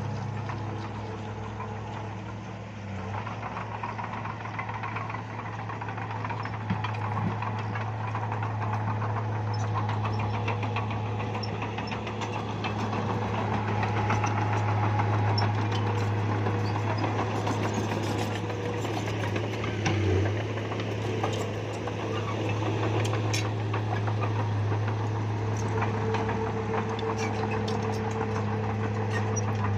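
Bulldozer's diesel engine running steadily with a constant low hum, with scattered light clicks and clanks in the second half.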